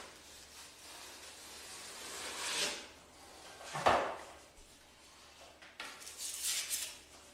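Household handling sounds: a soft rubbing swell, one sharp knock about four seconds in, and a few small clattery knocks near the end.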